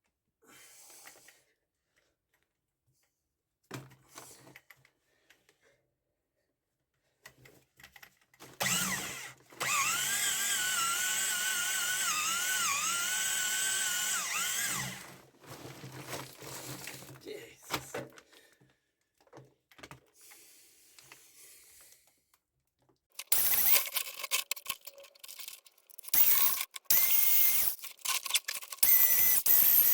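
Power drill boring anchor-point holes: it runs steadily under load for about six seconds with its pitch wavering as the bit bites, then is triggered in short repeated bursts near the end.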